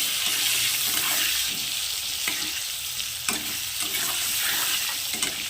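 Potato chunks sizzling steadily as they fry in hot mustard oil in a kadai, with a few light clicks along the way.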